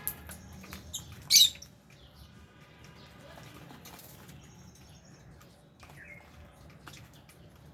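Small pet parrots (lovebirds and budgies) in an aviary: one sharp, loud chirp about a second and a half in and a short high whistle midway, over scattered small clicks and faint chatter.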